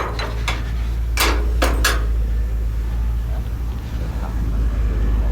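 Five sharp knocks, in two quick groups in the first two seconds, over a steady low rumble.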